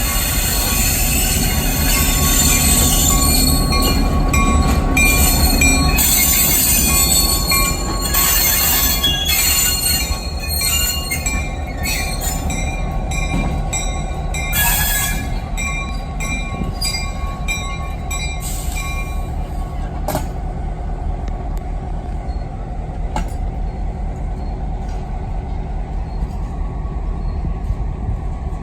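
Railroad train rolling on the tracks, its wheels squealing against the rails amid sharp clanks and clicks over a low rumble. The squealing and clanking fade after about twenty seconds, leaving mostly the rumble with occasional clicks.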